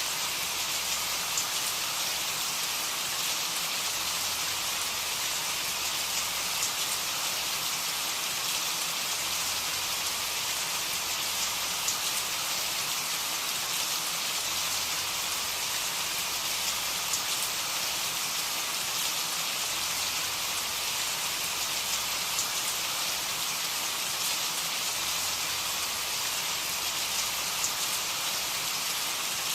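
Steady rain falling, an even hiss with now and then a sharper single drop.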